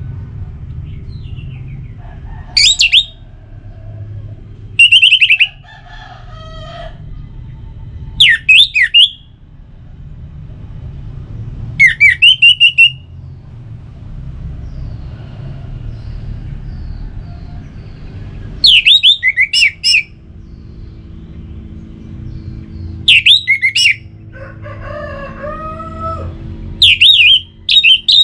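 Orange-headed thrush (anis merah) singing loud, short, whistled phrases that sweep up and down, one every three to four seconds, over a steady low rumble.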